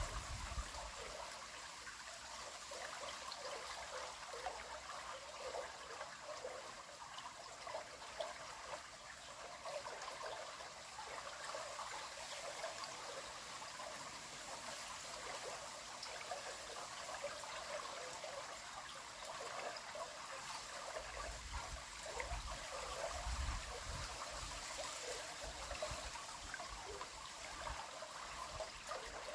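River water flowing steadily, a constant rush with a light trickling texture.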